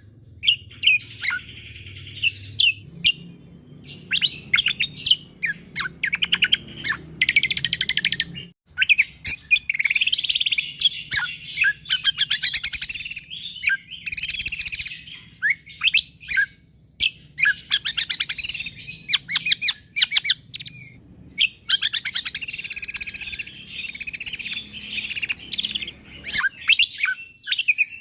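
A cucak kombo (kecial kombo) songbird singing continuously in rapid, closely packed bursts of high chips and trills, with only brief gaps between phrases.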